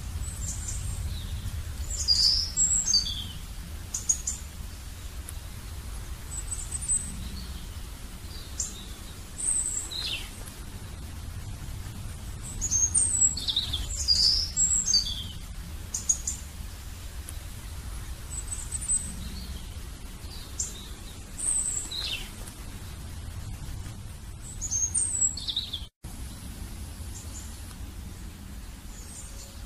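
Small birds chirping, with clusters of quick, high, falling chirps every few seconds over a steady low rumble. The sound drops out for an instant near the end.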